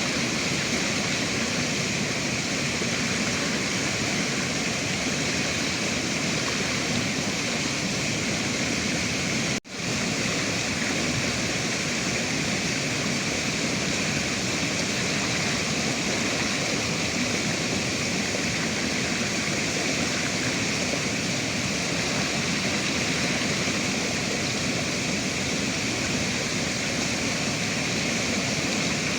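River water rushing in a steady, even wash of noise, with a momentary break in the sound about ten seconds in.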